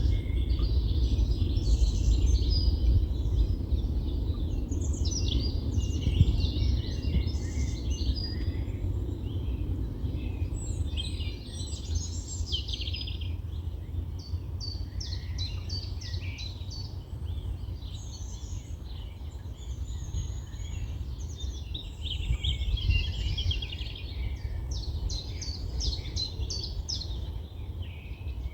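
Several songbirds singing, with overlapping warbling phrases and fast, rattling trills, over a steady low rumble of wind.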